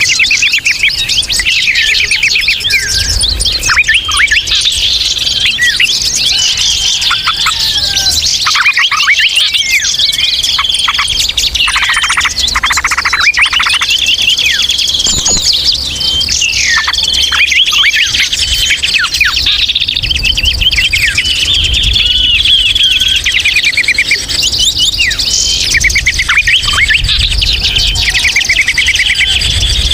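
Dense, noisy chorus of many small songbirds chirping, trilling and chattering at once without pause: a 'ribut ngeriwik' bird-lure recording.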